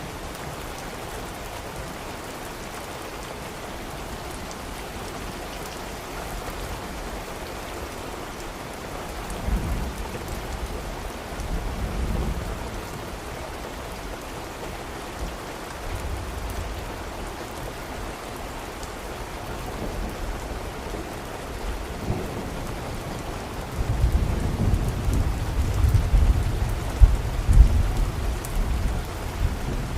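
Steady rain falling, with distant thunder: low rumbles roll in about ten seconds in and again near twelve seconds, and a longer, louder rumble begins about four-fifths of the way through and runs on to near the end.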